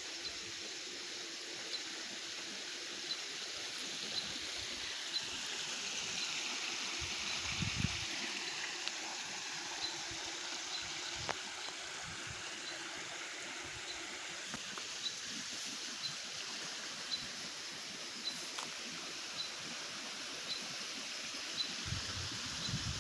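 Small stream trickling and gurgling steadily, with a short high chirp repeating about once a second over it. A brief low rumble about seven seconds in.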